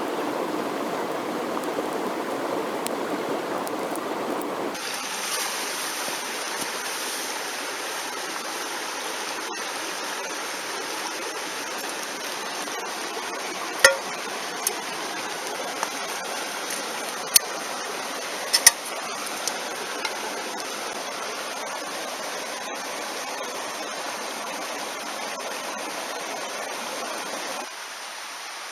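A mountain stream rushing steadily, its sound changing abruptly about five seconds in. A few sharp clicks stand out in the middle.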